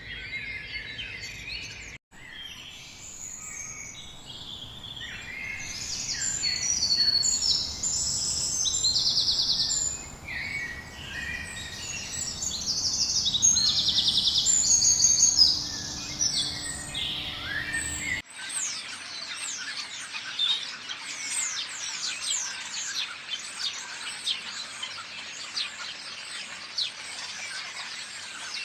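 Amazon rainforest birds calling, a mix of short, high repeated calls and trills, loudest in the middle. About two-thirds of the way through, the sound cuts abruptly to a dense, even chorus of fast, high chirps.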